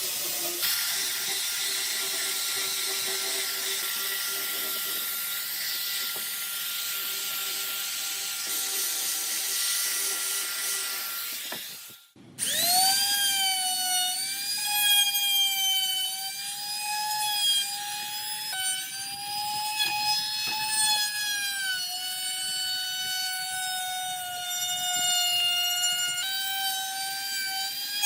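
Power tools working wood: a steady, noisy tool runs for about twelve seconds, then stops abruptly. A motor then spins up to a high whine that wavers in pitch as it is loaded.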